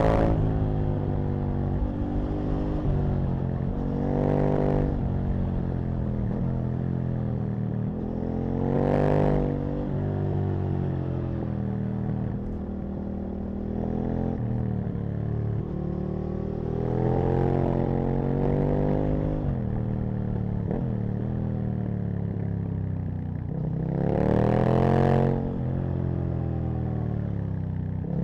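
Aprilia RSV Mille's 60-degree V-twin engine under way, its revs climbing and dropping again and again as the bike accelerates and backs off. There are louder hard pulls about four, nine, seventeen and twenty-four seconds in.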